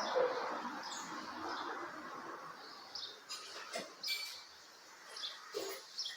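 Small birds chirping, with short high chirps roughly once a second. A hiss fades away over the first couple of seconds, and a few faint short knocks come in the second half.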